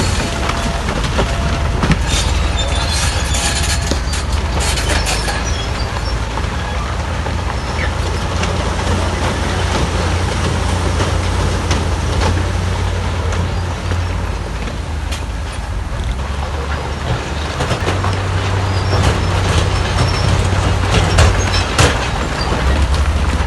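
Heavy diesel earthmoving machinery running steadily under load, with bursts of clattering and crunching, such as rock being pushed and tracks working, a couple of seconds in and again near the end.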